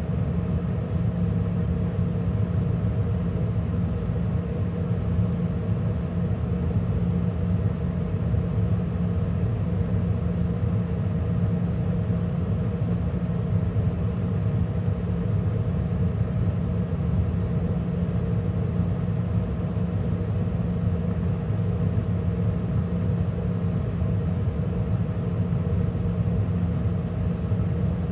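2013 Carrier gas furnace running mid-cycle with burners lit, inducer motor and circulating blower all on: a steady low hum with a few constant tones, unchanging throughout.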